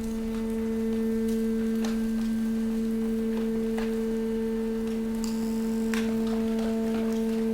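Hydraulic waste compactor running with a steady, pitched hum, with a few faint clicks.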